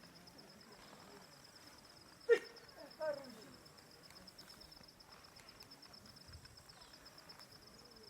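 Insects chirring steadily in a high, fast-pulsing tone, with two short calls about two and three seconds in, the first sharp and loud, the second falling in pitch.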